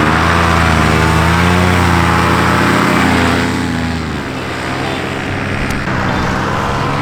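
Paramotor's small two-stroke engine and propeller running at power in flight, its pitch bending as it manoeuvres nearby; it eases off a little about three and a half seconds in.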